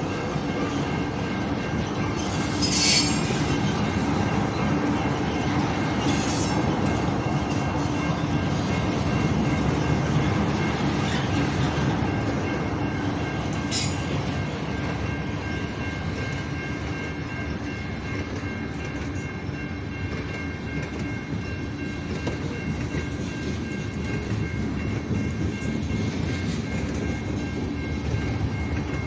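CN freight train's cars rolling past with steady wheel squeal, a few high tones held throughout. There are sharp metallic clanks about 3, 6 and 14 seconds in.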